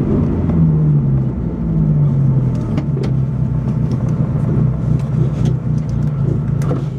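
Opel Corsa B rally car's engine heard from inside the cabin, running steadily at low revs as the car rolls slowly, its pitch dipping slightly twice in the first few seconds. A few light clicks from the cabin sit on top.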